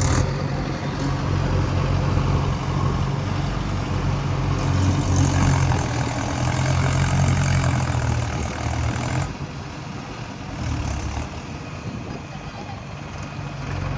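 Mahindra tractor's diesel engine running steadily with a low hum. It gets louder and hissier from about four to nine seconds in, then quieter.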